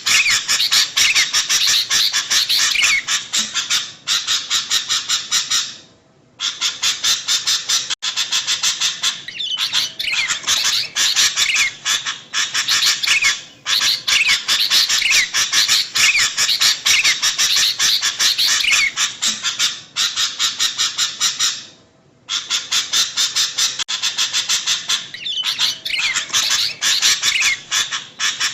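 Sooty-headed bulbuls calling in a dense, rapid, noisy chatter, with a brief pause about six seconds in and another about two thirds of the way through.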